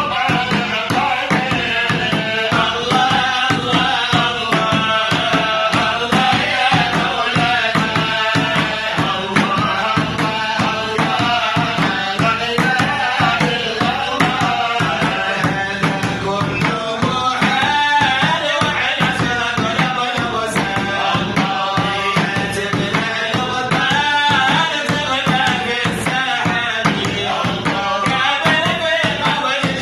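Folk singing with hand drums and other percussion keeping a fast, steady beat.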